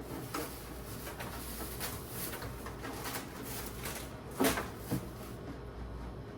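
Food containers being handled while clearing out a refrigerator: scattered light knocks and clicks, with a louder thump about four seconds in and a smaller one half a second after.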